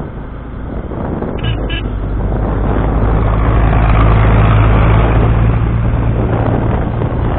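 Motorcycle engine running on the move, with road noise, the whole growing louder over the first few seconds. Two short high chirps sound about a second and a half in.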